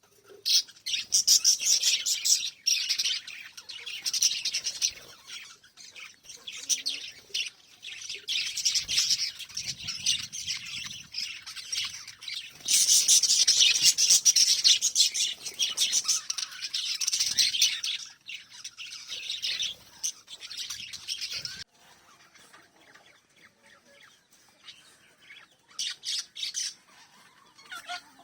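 Small pet parrots chirping and chattering in rapid, dense runs of high notes. The chatter is loudest in the first few seconds and again around the middle, then thins out to occasional chirps for the last several seconds.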